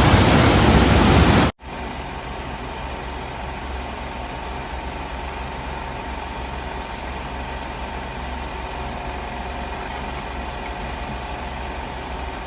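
A loud steady hiss that cuts off abruptly about a second and a half in, followed by a quieter, steady low rumble with a faint hum.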